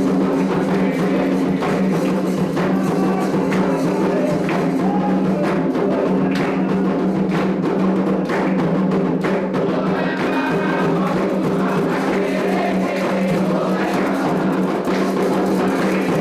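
Candomblé ritual music: hand drums and other percussion playing a steady, dense rhythm, with voices singing over it.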